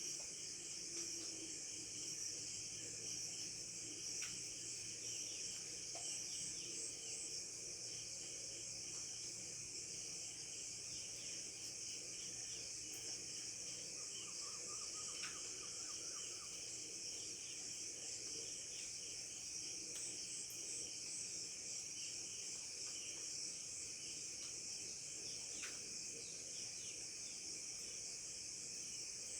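Steady, high-pitched chorus of chirping insects in the countryside, with a few faint, brief bird chirps over it.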